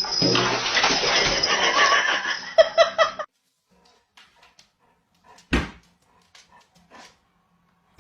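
A dog whimpering and yipping over a loud hissing background for about three seconds. This is followed by near quiet with scattered faint clicks and one sharp knock about five and a half seconds in.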